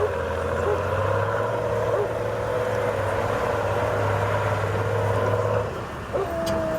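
Off-road trial truck's engine running steadily under load, then dropping off about a second before the end.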